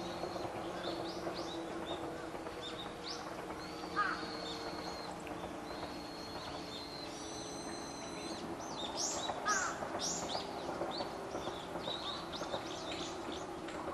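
Small birds chirping and trilling, several at once, with a louder call about four seconds in and again near ten seconds. A faint, steady low hum runs underneath.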